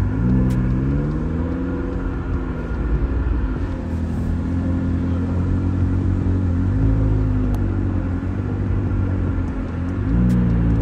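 Car engine and road rumble heard from inside the cabin while driving. The engine note climbs as the car accelerates over the first couple of seconds, then eases back, and climbs again near the end.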